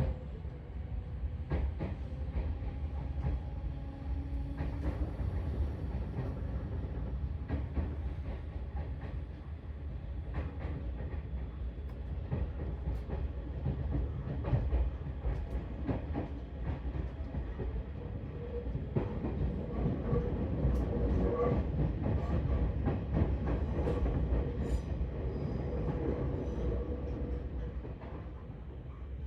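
Seibu 4000 series electric train running, heard from inside the car, its wheels clicking irregularly over rail joints over a steady rumble; it grows louder about two-thirds of the way through, then eases off near the end.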